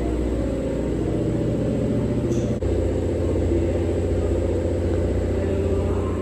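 A car engine running steadily with a low rumble; about two and a half seconds in the sound cuts abruptly to a slightly different engine note.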